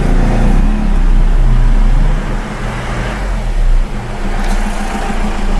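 Steady low mechanical hum, like a running motor, with a strong deep drone and a few faint shifting tones.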